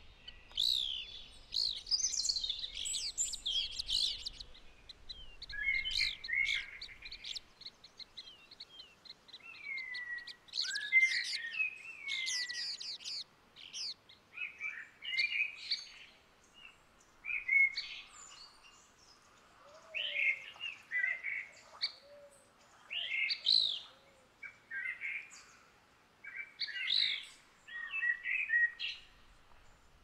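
Songbird song: varied chirps, trills and rising and falling whistles in short phrases every second or two, densest in the first few seconds.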